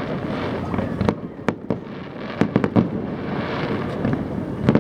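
Aerial fireworks going off: a run of sharp bangs, clustered about two and a half seconds in and again near the end, over a continuous rumbling haze.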